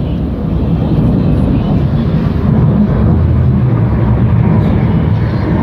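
Aircraft flying low overhead: a loud, deep, steady rumble that swells slightly over the first couple of seconds.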